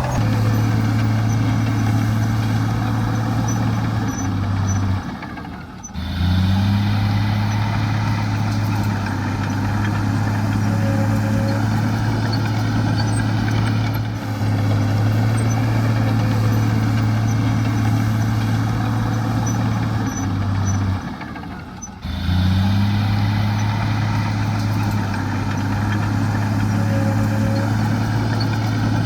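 Heavy diesel engine of earthmoving machinery running steadily under load, briefly dropping away twice before picking up again.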